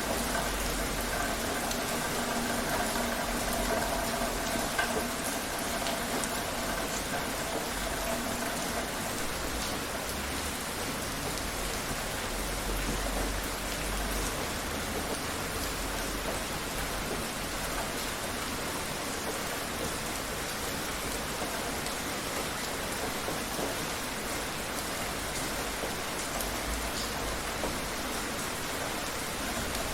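Steady rain falling, an even hiss of drops striking surfaces. A faint humming tone underneath fades out about nine seconds in.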